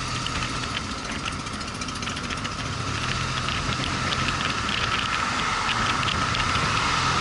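Motorcycle engine running on the road, getting gradually louder, with a steady high whine and a fast ticking rattle over it.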